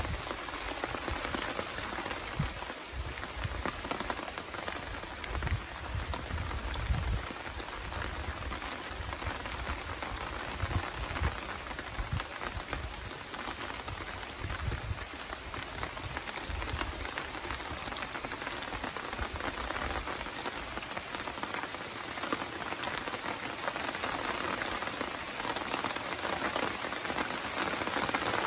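Steady rain falling, an even hiss of many drops pattering on surfaces, with a low rumbling in the first half.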